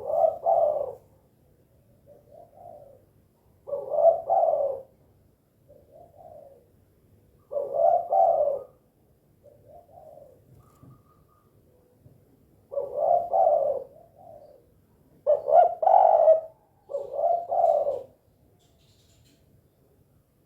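Spotted dove (tekukur) cooing over and over. Loud coo phrases come every few seconds, with softer coos in between.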